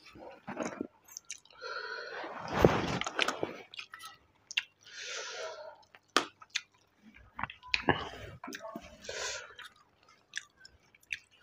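A person chewing mouthfuls of rice eaten by hand, with wet mouth noises and scattered sharp clicks of fingers against the steel plate; the loudest stretch of chewing comes about two to three and a half seconds in.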